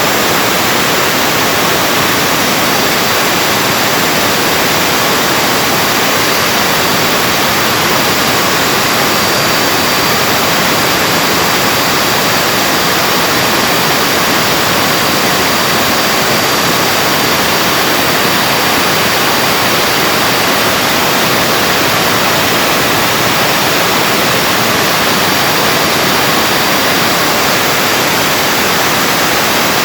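Vacuum cleaner's universal motor running at full speed: a loud, steady rush with a faint high whine. Its carbon brushes are sparking on a commutator crusted from overheating.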